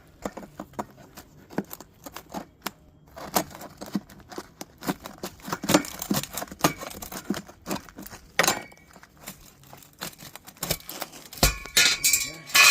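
Metal pry bar scraping and clicking against metal ACO drain grates as they are levered up out of their channel: irregular knocks and scrapes, then a loud ringing metal clank near the end.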